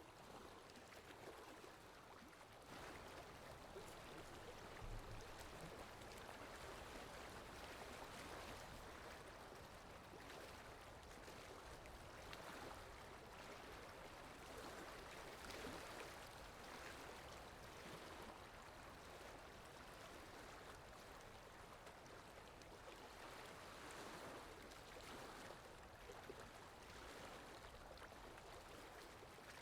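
Faint, steady rush of running water from a waterfall and river, an even hiss with small swells in level.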